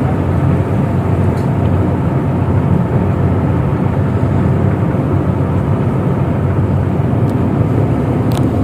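A tugboat's diesel engines running steadily during a berthing manoeuvre, a low even drone heard on board.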